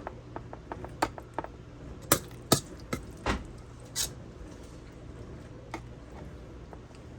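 A spoon clicking and knocking against a metal muffin tin as chicken-pie filling is spooned into and pressed down in the pie crusts: a run of light ticks, then about four sharper knocks a couple of seconds in, with a low steady hum underneath.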